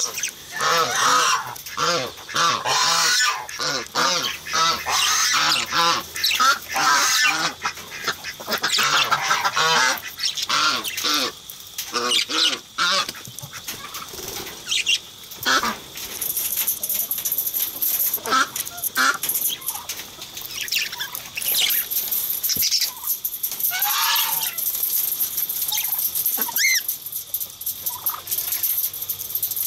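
Budgerigars chattering and warbling: a dense run of quick chirps, squawks and warbled notes in the first half, thinning to scattered calls in the second half.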